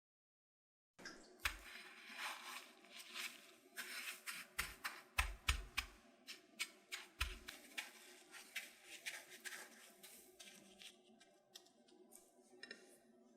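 Hand-work food preparation sounds: a dense, irregular run of sharp clicks, taps and crackles. They start about a second in, after a moment of dead silence.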